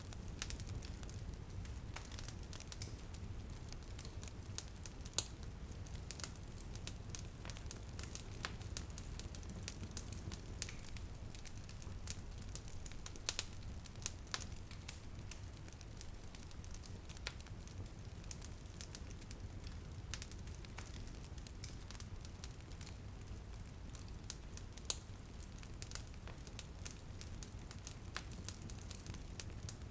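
Wood fire in a fireplace crackling, with irregular sharp pops scattered throughout over a steady low rumble of burning. Light rain patters on a window underneath.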